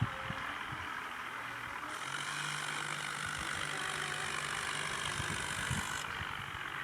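Swaraj tractor's diesel engine running steadily, with a steady low hum that holds for a few seconds in the middle.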